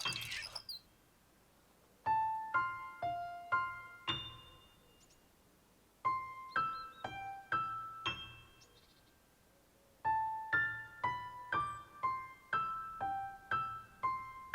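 A keyboard melody of short, quickly fading notes, played as three phrases with brief pauses between them, starting about two, six and ten seconds in.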